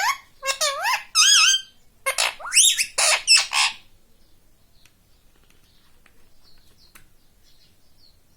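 Pet parrot giving a rapid run of loud, shrill squawks and chattering calls with sliding pitch for about four seconds, then only faint high chirps.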